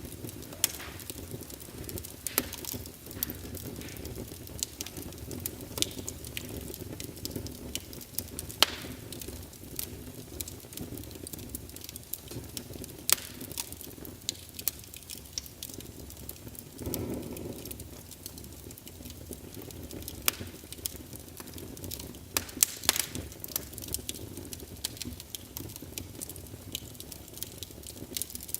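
Wood fire crackling in a fireplace: irregular sharp pops and snaps over a steady low rush of the flames, with a short louder rush a little past halfway.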